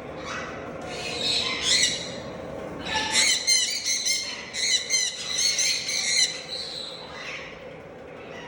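Parrots squawking and chattering in shrill, rapid bursts of calls: a short burst about a second in, then a longer, dense stretch of calls for about three seconds.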